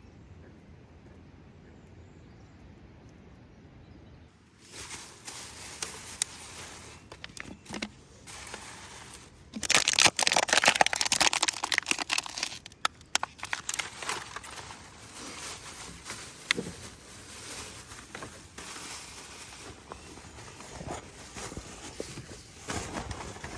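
Close crinkling and crackling handling noise near the microphone, starting a few seconds in and loudest for a few seconds about ten seconds in.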